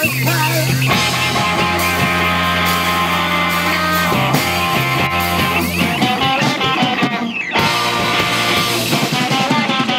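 A rock band playing live: electric guitars and bass with drums, no vocals in this stretch.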